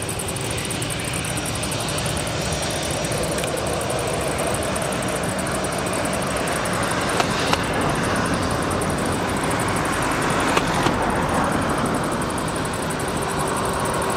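Airbus A320's jet engines running: a steady broad rush that swells toward the middle and eases near the end, with a few sharp clicks about seven and ten and a half seconds in.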